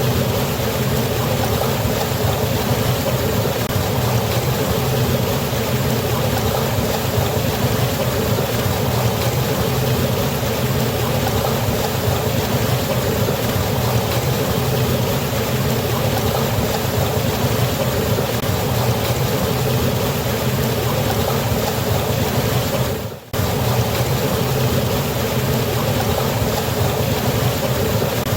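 Waterfall: a steady, dense rush of falling water that dips out for a moment near the end.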